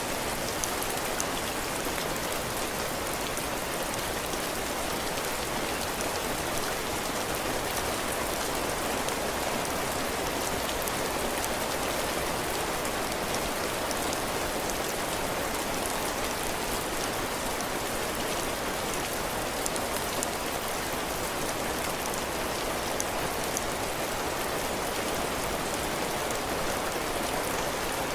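Steady heavy rain falling on a cabin porch, drops striking the ground and the roof, with fine scattered drip ticks over an even hiss.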